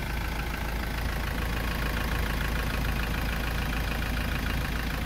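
Kia Sorento 2.5 CRDi D4CB four-cylinder common-rail turbodiesel engine idling steadily.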